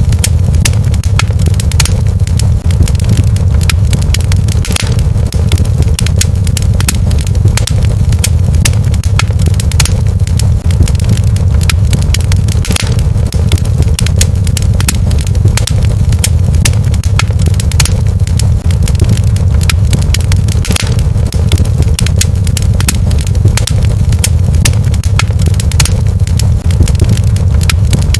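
Fireplace fire crackling: a dense, irregular scatter of sharp pops and snaps over a steady low rumble.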